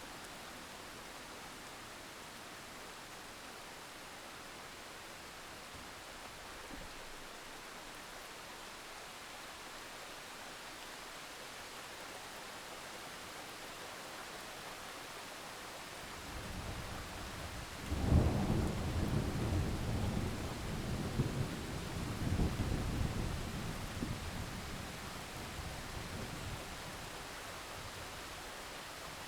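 Heavy rain falling steadily, with a roll of thunder building about 16 seconds in, cracking loudest about two seconds later and rumbling on in several swells for some eight seconds before fading back into the rain.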